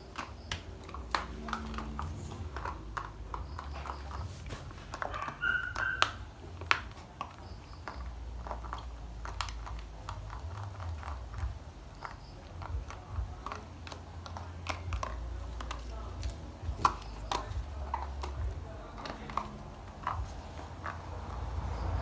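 American Bully puppy playing: scattered sharp clicks and taps, with a short high-pitched sound about five and a half seconds in, over a low rumble.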